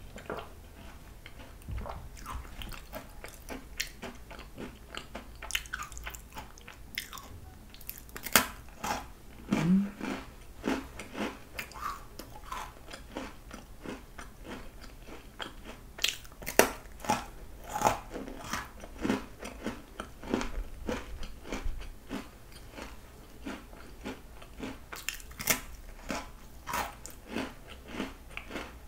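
Crunching and chewing of a crisp butter cookie, many irregular sharp crunches one after another.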